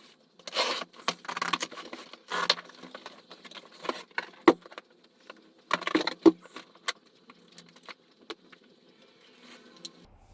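Irregular clattering, rattling and rustling of objects being handled, with sharp clicks; the loudest bursts come in the first few seconds and again about six seconds in.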